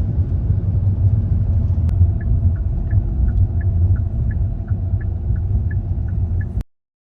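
Heavy, steady low rumble of a moving vehicle, with a quick run of small ticks alternating between two pitches starting about two seconds in. The sound cuts off suddenly near the end.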